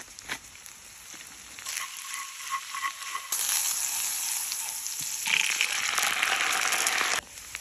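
Butter sizzling as it melts in a hot cast-iron skillet, the sizzle jumping up about three seconds in. Then a louder, fuller sizzle as canned corn kernels land in the hot butter, which cuts off abruptly near the end.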